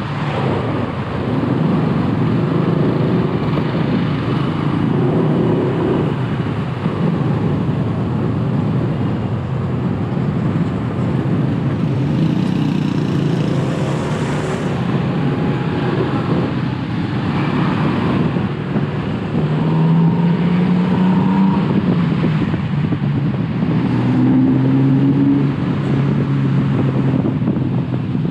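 Motorcycle engine running while riding, its note rising a couple of times in the second half, over a steady rush of wind and road noise.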